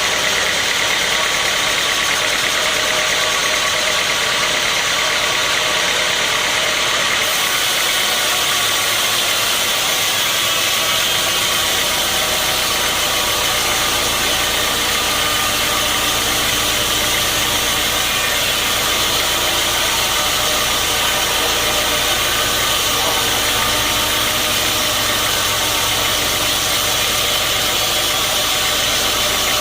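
Sawmill machinery running steadily with a loud, even mechanical noise. A deeper steady hum joins about ten seconds in.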